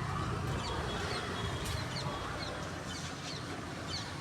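Birds calling with short, high, downward-sliding notes, several a second, over the steady low drone of a motor boat's engine.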